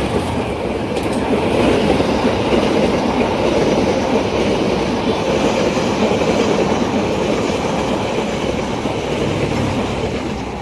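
A train passing close by, its wheels running over the rails in a steady, loud rush that eases slightly near the end.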